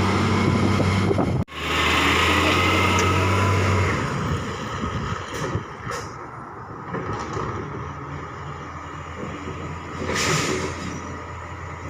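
Garbage truck's diesel engine running loud and steady, with a faint whine, then dropping to a quieter run about four seconds in. There are a few clicks and a short hiss of air near the end.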